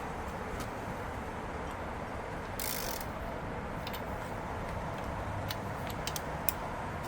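Scattered metallic clicks of a hand ratchet working on engine head bolts over a steady background noise, with a short hiss about two and a half seconds in.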